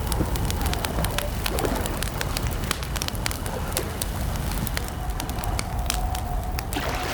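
Wood campfire crackling with irregular sharp pops over a steady low rumble. A faint, steady, mid-pitched tone comes in about five seconds in and holds.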